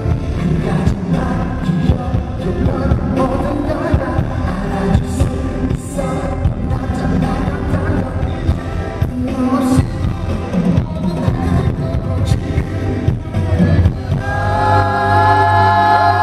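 Live pop song through a concert sound system, recorded from the audience: singing over a steady beat, settling into long held chords near the end.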